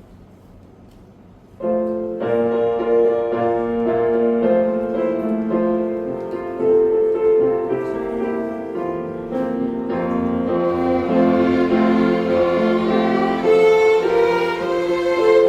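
String ensemble of violins and cellos playing a slow hymn; the ensemble comes in together about a second and a half in after a short hush of room tone, with sustained bowed notes.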